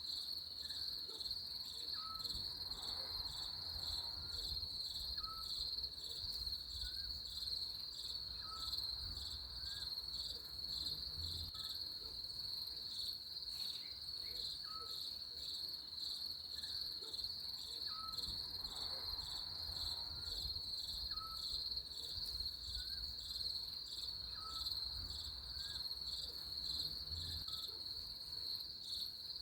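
Nature ambience of a steady, high-pitched insect trill that pulses rapidly, with a faint short chirp repeating about every second and a half and a low rumble underneath.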